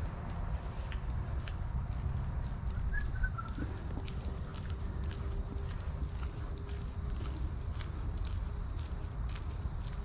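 Steady high-pitched insect chorus with a low rumble underneath; a few short chirps about three seconds in.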